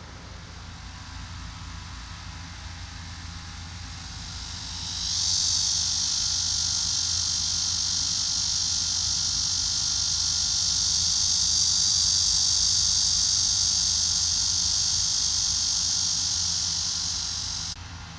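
Cicadas buzzing in a loud, steady, high-pitched drone that swells in about four seconds in and cuts off suddenly near the end, over a low, steady rumble.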